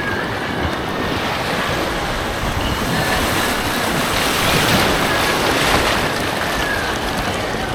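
Rushing white water of an artificial rapids course, a steady churning noise that swells a little around the middle.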